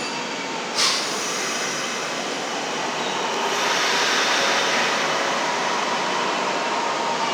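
Kintetsu 6200-series electric commuter train pulling away from a station. A short sharp burst of noise about a second in, then running noise that builds from about three and a half seconds, with a steady tone growing toward the end.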